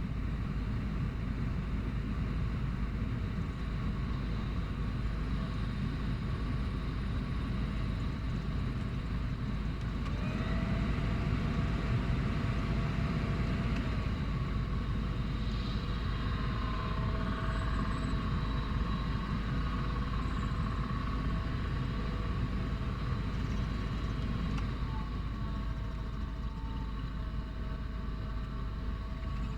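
Luzar LFH 18531 electric fan motor running in frost, whistling and grinding over a steady low rumble. The whistle tones come in about a third of the way through and shift in pitch later. This is the fan after 3.5 years and 24,000 km of use, at −16 °C.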